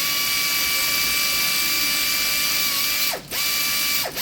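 Handheld electric power tool motor running at steady speed with a high whine, let off and re-triggered twice, a little after three seconds in and again near the end.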